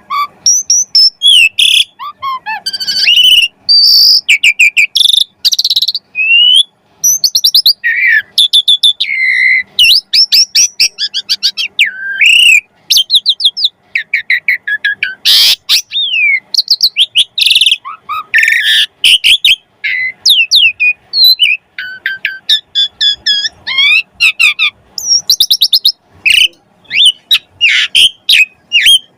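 Asian pied starling (jalak suren) singing without pause: a busy, varied stream of loud whistles, glides, chattering and fast rattling trills, with mimicked phrases of other birds worked in. There is one sharp click about halfway through.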